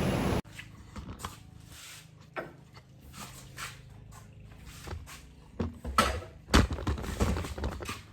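A power tool's steady running noise cuts off suddenly just after the start. Light clicks, taps and handling knocks of small parts follow, with a few louder knocks about six seconds in.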